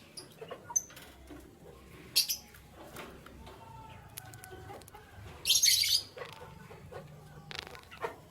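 Caged canaries fluttering their wings: a short burst of flapping about two seconds in and a longer one around five and a half seconds, with small clicks and faint chirps between.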